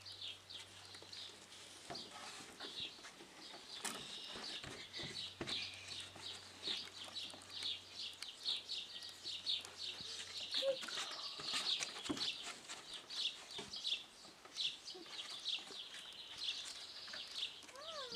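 Birds chirping: a continuous, rapid series of short high chirps, with a few soft knocks.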